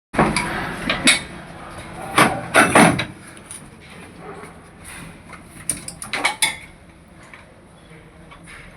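Metal clanks and knocks of tools and engine parts during removal of a Tata 1512 truck engine, in irregular clusters: a few strikes in the first second, the loudest run around two to three seconds in, and another group around six seconds in.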